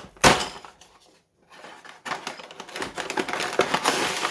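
A sharp knock, then after a short pause a dense run of clicking and rustling: paper parts bags of a LEGO set being handled, with the plastic bricks inside rattling.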